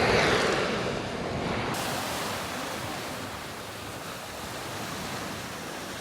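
Ocean surf washing on a beach, a steady rushing noise, loudest in the first second and then settling to an even level.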